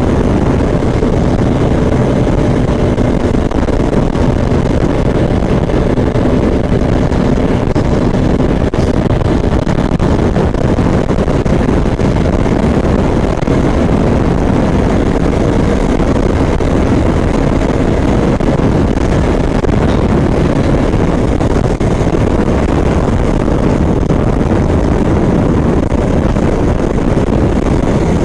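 Motorcycle cruising steadily at highway speed: a constant low engine drone under heavy road and wind rush.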